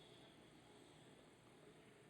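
Near silence: the quiet pause between a sleeping pit bull's snores.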